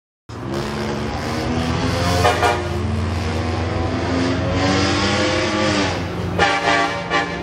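Car engine running and revving, its pitch rising and falling, with short louder rev blips about two seconds in and again near the end.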